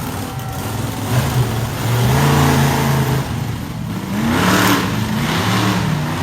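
Small monster truck's engine running and revving, its pitch climbing about four seconds in.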